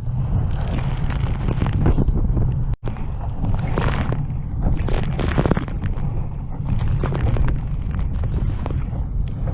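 Strong wind buffeting the microphone in a heavy, continuous rumble, with irregular gusting surges of rushing noise. The sound cuts out for an instant about three seconds in.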